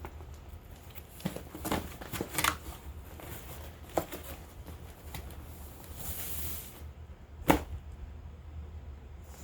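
Hands handling packaging and products: scattered taps, clicks and rustles, a brief hiss a little past halfway, and a sharp click, the loudest sound, about two seconds before the end.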